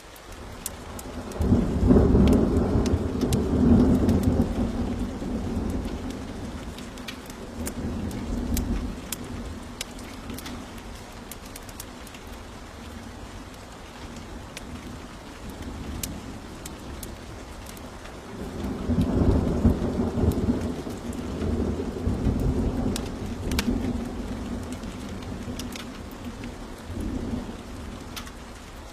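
Two long rolls of thunder, one building about two seconds in and another just before twenty seconds in, each fading over several seconds. Steady rain runs underneath, with scattered sharp ticks.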